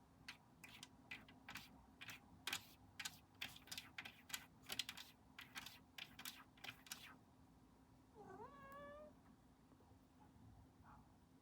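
A quick run of about twenty sharp clicks over the first seven seconds, then a cat's single meow, rising and then held, about eight seconds in.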